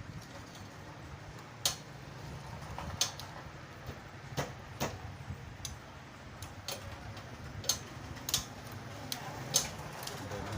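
Irregular sharp metal clicks and taps, about seven in all, from tools and engine parts being handled while the cam timing of a Honda CD70 engine is set, over a steady low hum.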